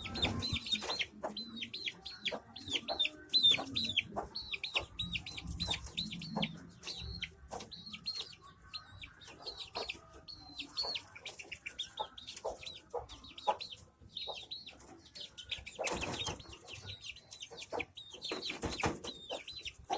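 Aseel chicks peeping over and over in quick high cheeps, with scattered light knocks and two short, louder rustling noises near the end.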